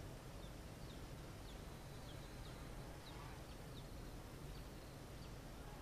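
Faint bird chirps: short, high, falling notes about two a second over a low background hum.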